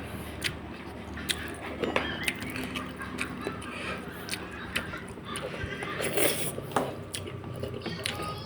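Close-up mouth sounds of someone eating a soft, fatty fish head: irregular wet lip smacks, clicks and chewing, with a louder sucking sound about six seconds in.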